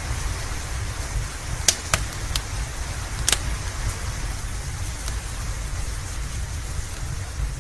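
Steady rain with a low rumble beneath it, and a wood fire crackling: sharp pops about 1.7 and 2 seconds in, a smaller one soon after, and the loudest near the middle, with fainter ticks later.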